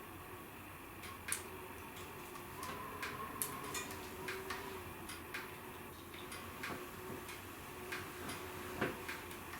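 Wood fire crackling in a fireplace: irregular sharp pops and snaps over a steady low hiss, with a louder crack near the end.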